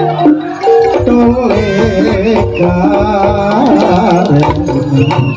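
Live jaranan music: Javanese kendang hand drums beating fast under metallophone notes, with a wavering melody line through the middle.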